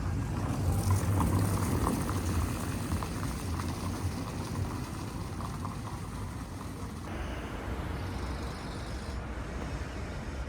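City street ambience: a steady low rumble of traffic with a noisy hiss. The background shifts abruptly a couple of times.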